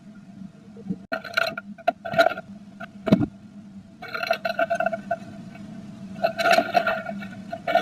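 Several short bursts of scraping and rustling inside a nest box as a blue tit works nesting material, over a steady low hum.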